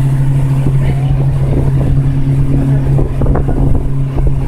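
Motorboat engine running at a steady speed, a constant low drone with rumble beneath it.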